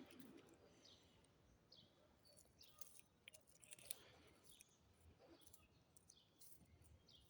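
Faint bird chirps: short, high calls scattered over near silence.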